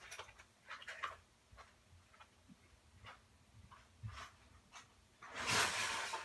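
Light clicks and knocks of small objects being handled, then a louder burst of noise lasting about a second near the end.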